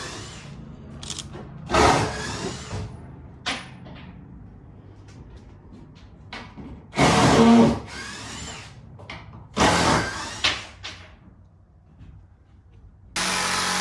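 Power drill run in several short bursts, its motor pitch rising as each burst starts, with a sharp click between bursts.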